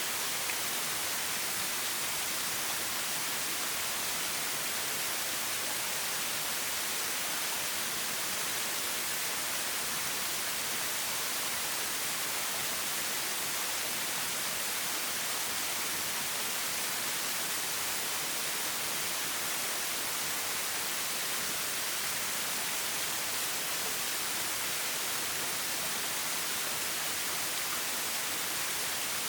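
Steady, unbroken rush of a flowing forest stream.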